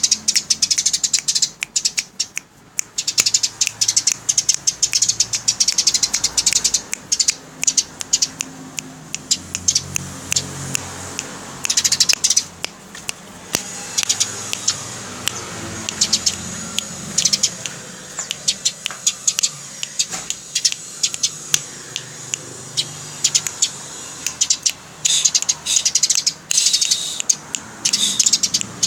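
Eurasian tree sparrow chattering: rapid, high, harsh chirps run together in dense bursts, with short gaps between the runs.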